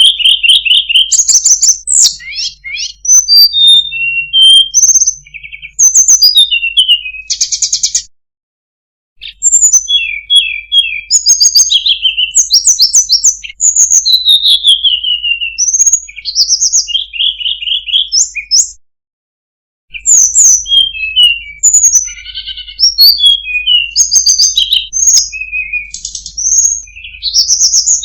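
Tledekan gunung singing a long, varied song of quick whistled phrases, slurred notes and fast trills of repeated notes, high-pitched. The song breaks off into silence twice, about eight seconds in and again near nineteen seconds in.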